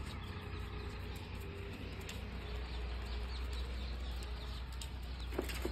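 Birds calling in the background, with short high chirps scattered through the second half, over a steady low hum.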